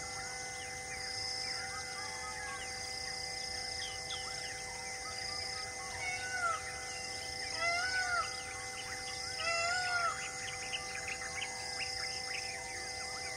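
Many birds chirping and calling, with three louder arching calls about six, eight and ten seconds in, over a steady, regularly pulsing high buzz.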